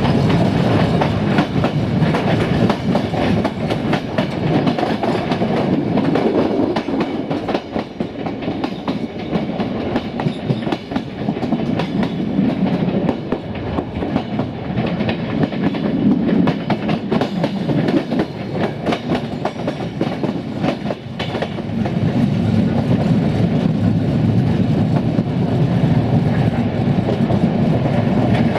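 Wheels of a moving passenger train running over the rails: a continuous rumble with the clickety-clack of rail joints, a little quieter through the middle and louder again for the last several seconds.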